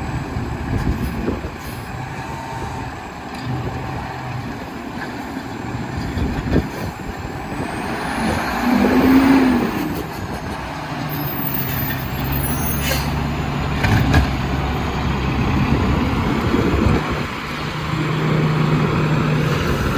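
Diesel engine of an Autocar WXLL garbage truck running, its pitch rising and falling. About nine seconds in there is a loud hiss of air brakes, and a few seconds later come two sharp knocks.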